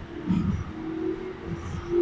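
Keikyu 600 series electric train running in a subway tunnel, heard from inside the car: a steady whine from the traction motors that rises slightly in pitch and grows louder near the end, over a low rumble of wheels on rail.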